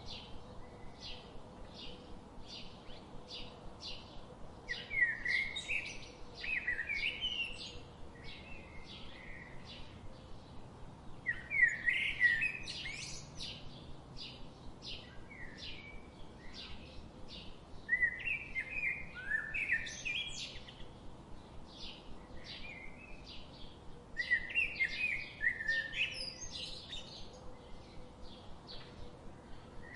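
Songbirds singing: one bird repeats a short chirp about twice a second, while louder, more varied song phrases break in roughly every six seconds.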